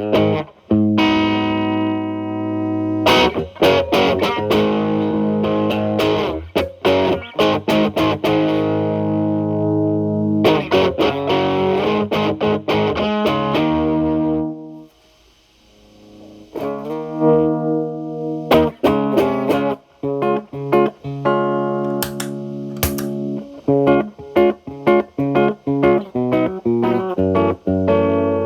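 Telecaster played through an MI Audio Crunch Box distortion pedal set to gain 9, into a Marshall Valvestate's clean channel: distorted chords and single-note lines. After a brief pause about halfway through, the playing resumes with a cleaned-up tone.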